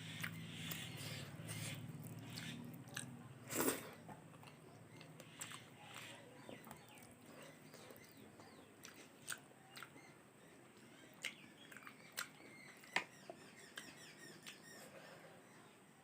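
Close-miked chewing of food, with soft wet mouth clicks scattered through. There is one louder sharp sound about three and a half seconds in.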